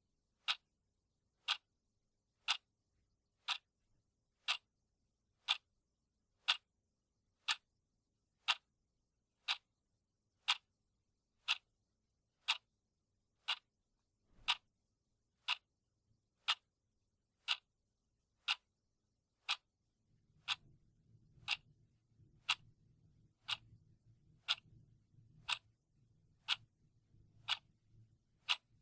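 Clock ticking sound effect: sharp, even ticks at one per second.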